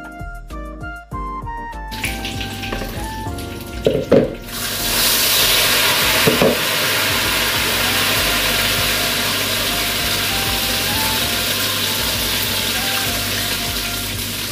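Beaten egg frying in hot oil in a wok, for telur gulung: a sizzle sets in about two seconds in, swells sharply around four seconds, and holds as a steady loud hiss. Quiet background music runs underneath.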